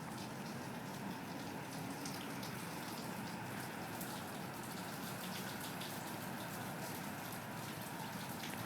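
Steady rain falling, a constant wash of noise with many small drop impacts.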